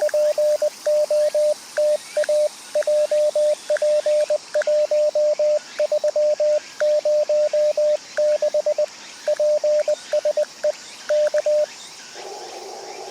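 Morse code (CW) from a ham radio transceiver: a single steady tone keyed on and off in dots and dashes. Near the end the keying stops and the radio switches to receiver hiss.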